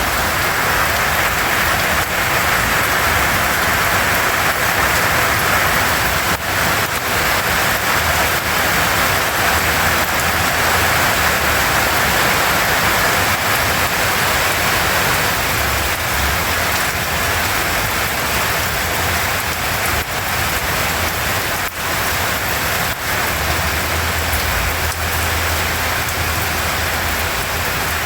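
Steady hiss of falling water splashing onto a surface.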